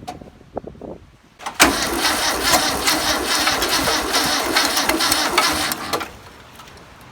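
The 1962 VW Type 2's air-cooled flat-four is cranked on the starter motor for about four seconds without firing, since it has no spark lead and no fuel, after a few short knocks. The cranking stops abruptly.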